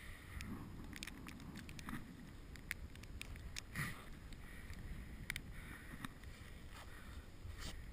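Bicycle riding through snow, heard from a GoPro: a low steady rumble with irregular clicks and rattles.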